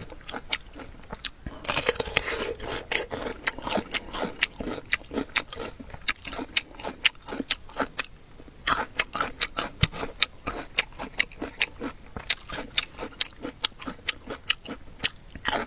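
Close-up crunchy chewing of a sour pickled green plum dipped in chili sauce: a steady run of crisp crunches, several a second. Twice, about two seconds in and near the middle, louder wet mouth sounds break in.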